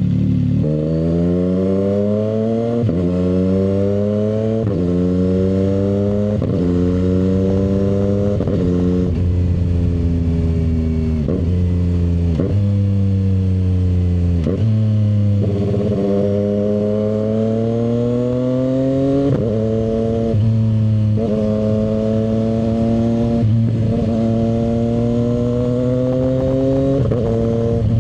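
CFMoto 675 SR-R's inline three-cylinder engine under way, revving up through the gears: each rising engine note breaks off with a sudden drop in pitch at a gear change, over and over, with longer pulls later on.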